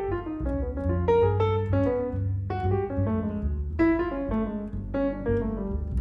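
Piano music: quick runs of notes, many falling in pitch, over low bass notes.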